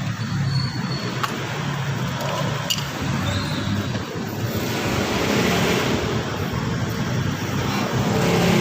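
Mazda 3's engine running steadily at idle, a low even drone under a broad rushing noise.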